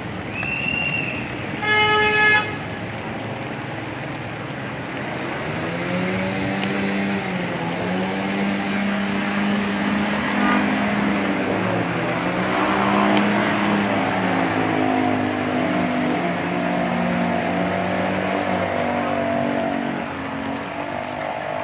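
Road traffic: a short high beep, then a loud vehicle horn toot about two seconds in. From about six seconds on, vehicle engines run, their pitch rising and falling.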